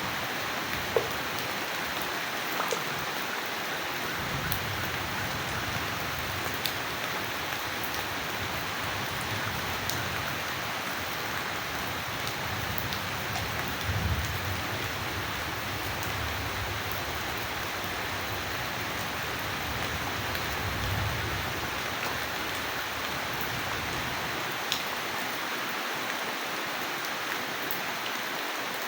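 Steady rain falling, a continuous hiss with scattered sharp drop ticks on a surface. A low rumble swells in a few seconds in, peaks twice in the middle and fades out before the end.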